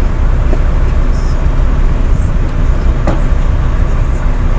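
Steady low rumble of a semi truck's diesel engine idling, heard from inside the cab, with a light click about three seconds in.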